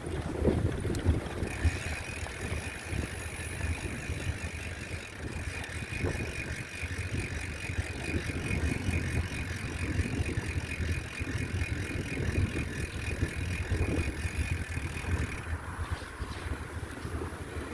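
Bicycle being ridden: rumble from the ride and wind buffeting the microphone. A steady high-pitched buzz joins about a second and a half in and stops near the end.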